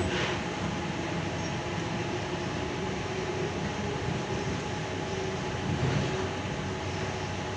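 Interior running noise of a Sydney Tangara electric train in motion: a steady rumble with a faint steady hum over it, swelling briefly about six seconds in.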